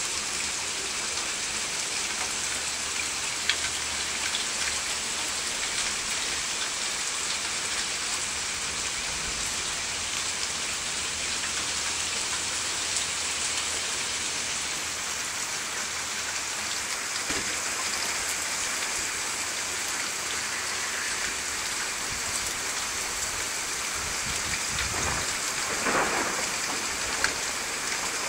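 Steady rainfall, an even hiss throughout, with a couple of brief low rumbles near the end.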